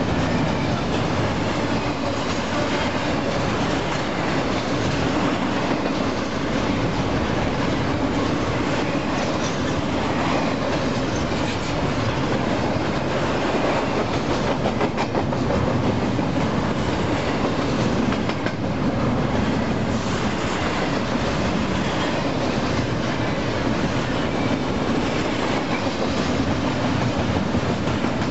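Double-stack intermodal container cars of a freight train rolling past. Steel wheels on the rails make a steady, continuous rumble with occasional clicks.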